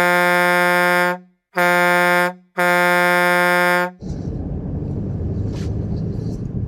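Car horn honked in three steady blasts, the middle one shortest, followed by the low steady noise of the vehicle.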